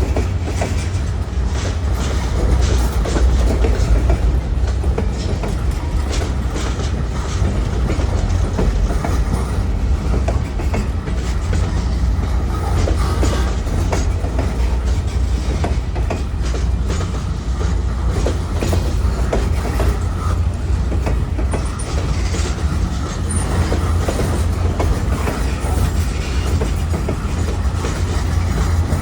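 Freight train rolling past, its wheels clicking and clacking on the rails over a steady low rumble.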